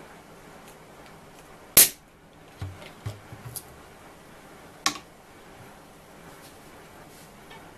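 Two sharp cracks about three seconds apart, the first the louder, with a few soft knocks between them.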